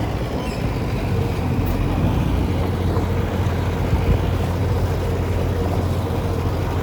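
Diesel engine of heavy earthmoving equipment running steadily, a low drone that holds level.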